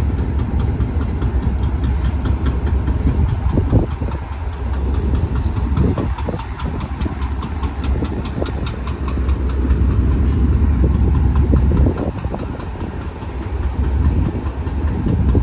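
Diesel locomotive running with a loud, steady, deep rumble, with scattered knocks and clicks over it.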